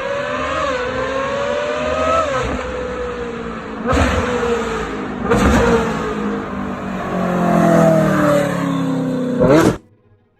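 V8 car engine accelerating hard, its pitch climbing and dropping back at two gear changes, later falling away; the sound cuts off abruptly near the end.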